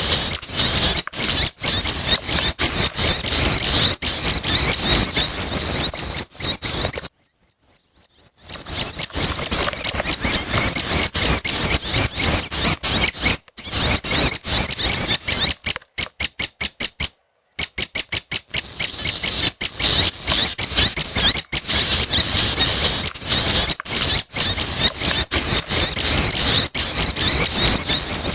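Prenjak (prinia) chicks calling in a continuous, high-pitched stream of squeaky chirps, with a break about seven seconds in and a stuttering, chopped stretch around the middle.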